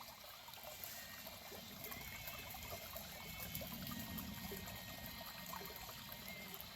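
Small creek trickling and bubbling over rocks, a steady, even rush of water.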